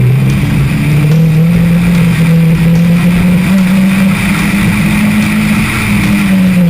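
Car engine pulling hard during an autocross run, its note climbing slowly and steadily under acceleration, then dropping right at the end.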